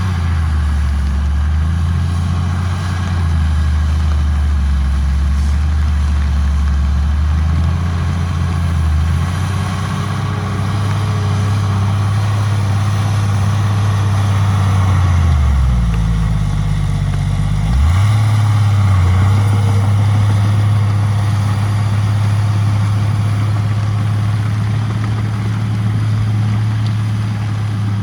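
Heavy diesel engine running steadily under work, its pitch sagging for a few seconds around the middle and then picking back up.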